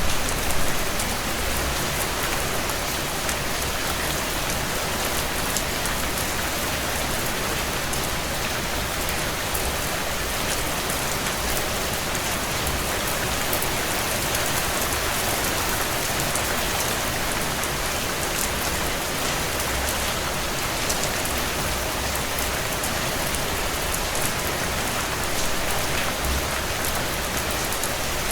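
Steady heavy rain on window panes, with scattered small crackles and pops from a wood fire burning in a fireplace.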